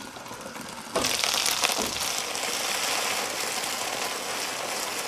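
Okra frying in hot oil in a frying pan: a loud sizzle starts suddenly about a second in and keeps going, with a couple of metal clinks from the pan and lid just as it starts.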